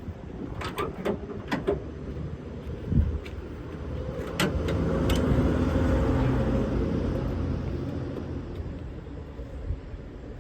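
A handful of sharp clicks and a dull thump, then a passing vehicle's engine that grows louder to a peak about halfway through and fades away again.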